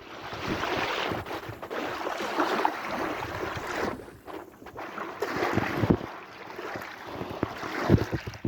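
Sea waves washing in and receding in swells of hiss, with wind buffeting the microphone in low thuds near the end.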